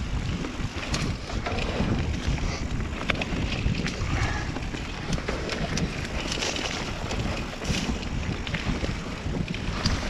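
Wind rushing over a helmet-mounted microphone as a mountain bike rides down a dirt trail, with tyre noise on the ground and many short clicks and rattles from the bike and helmet.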